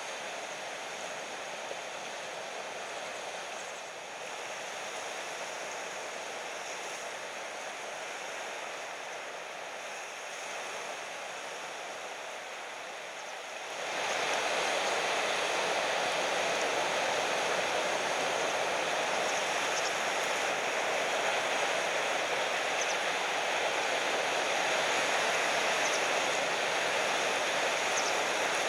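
Ocean surf washing and breaking in a steady rush of noise, which becomes clearly louder about halfway through.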